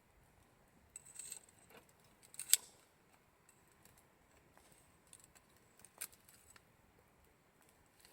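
Campfire crackling faintly: scattered sharp snaps and pops from the burning wood, the loudest about two and a half seconds in.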